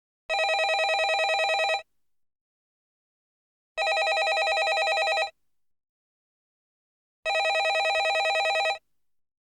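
Landline telephone ringing: three evenly spaced trilling rings of about a second and a half each, one every three and a half seconds.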